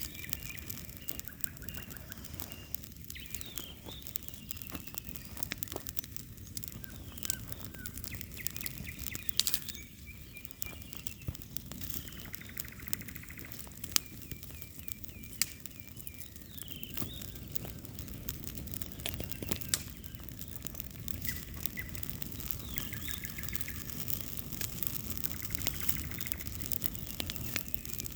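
Bonfire crackling with scattered sharp pops, while small birds chirp and trill in the background.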